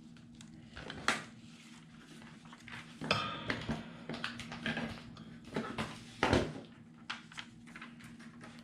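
Irregular clicks, knocks and short rustles of craft supplies being handled on a work table, over a faint steady hum.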